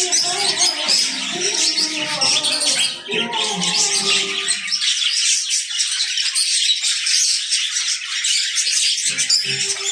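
A flock of budgerigars chattering and twittering continuously in a dense, high-pitched din. Background music runs underneath, drops out about halfway through and comes back near the end.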